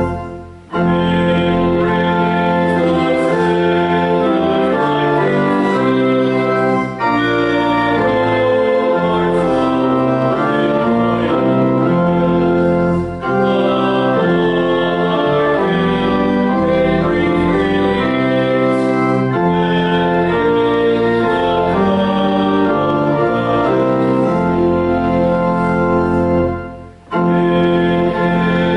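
Church organ playing sustained chords in a slow hymn-like tune, its phrases separated by short pauses.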